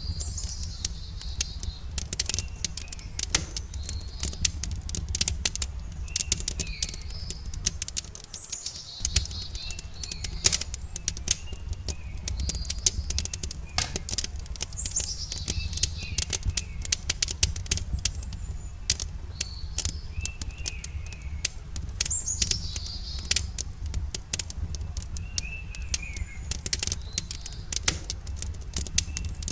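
Wood campfire crackling and popping in quick irregular snaps over a steady low rumble, with birds calling in short falling chirps every few seconds.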